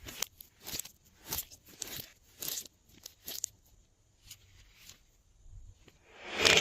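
Glossy slime being worked by hand, giving short sticky crackling squishes about every half second or so. They ease off in the middle, then one louder, longer squish comes near the end.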